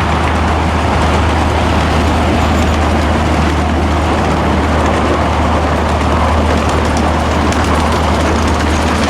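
Diesel-powered train passing close by: a steady, loud low engine rumble with rushing wheel-on-rail noise.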